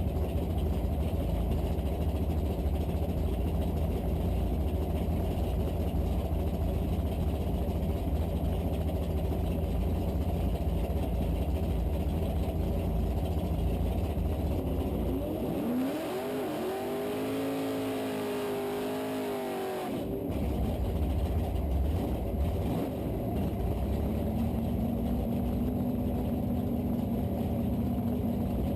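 Small-block V8 car engine running with a heavy low rumble. About halfway through, the pitch rises and holds for a few seconds in a rev, then drops back to the steady rumble.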